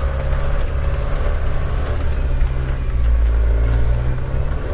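Car engine and road noise heard from inside the moving car: a steady low drone as the car pulls away and drives slowly.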